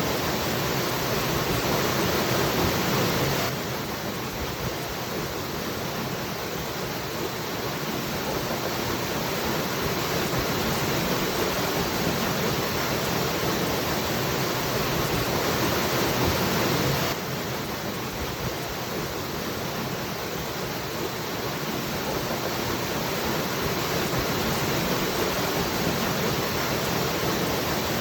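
Waterfall rushing steadily, as a dense even roar of falling water. It dips slightly and abruptly twice, a few seconds in and again past halfway.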